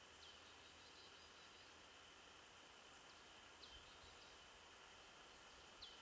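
Faint steady hiss of a quiet winter forest, with a small bird giving three short, high calls that slide down in pitch, the last one, near the end, the loudest.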